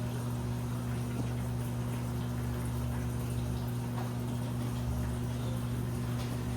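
Washing machine running: a steady low motor hum under an even wash of churning water noise.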